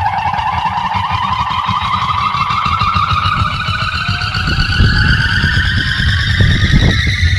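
Large sound-system speaker rigs playing very loud: a tone with overtones glides slowly upward in pitch over heavy bass, and the bass pulses harder from about halfway through.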